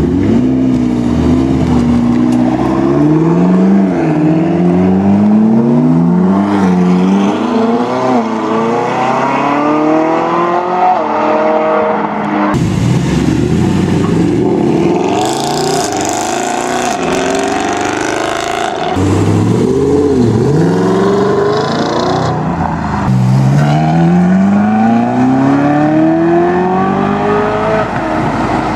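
Supercar engines revving and accelerating, the pitch climbing and dropping again and again as the cars pull away through the gears. The sound changes abruptly about twelve seconds in to another car accelerating, with a long rising pull near the end.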